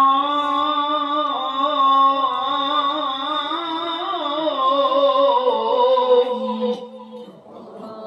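A male Quran reciter's voice holds one long, ornamented note in the melodic tilawah style, its pitch wavering in small turns. About seven seconds in it falls to a softer held tone.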